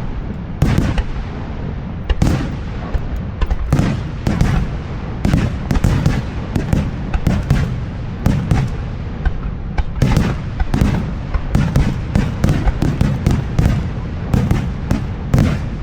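Aerial fireworks bursting in rapid succession: a dense run of sharp bangs and booms, several a second at times, over a continuous low rumble of echoing reports.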